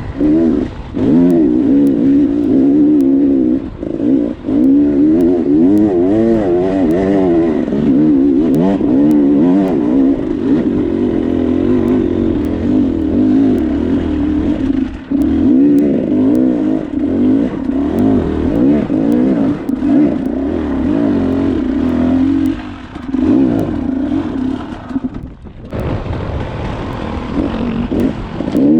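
Dirt bike engine revving up and down continuously under load on rough terrain, with scattered sharp knocks and clatter. The engine drops away briefly near the end before picking up again.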